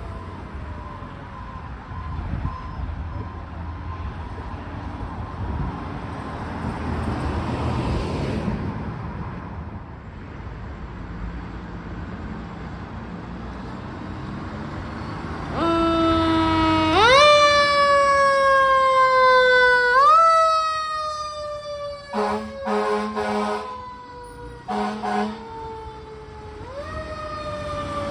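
Fire engine responding with its siren wailing: each cycle rises quickly and falls slowly, over engine and road noise. A long horn blast comes just before the siren swells loud about halfway through, and several short horn blasts follow a few seconds later.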